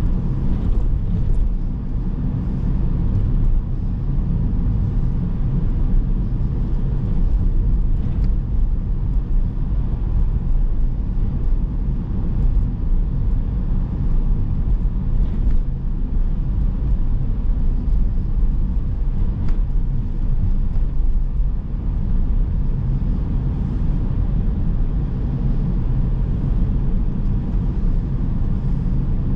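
A car driving on town roads: steady low road and engine rumble heard from inside the cabin, with a few faint clicks now and then.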